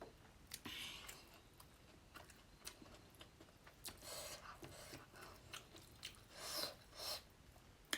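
Close-up eating sounds from a person eating fish curry: quiet chewing and mouth clicks, with a few soft smacking sounds and an occasional faint crunch.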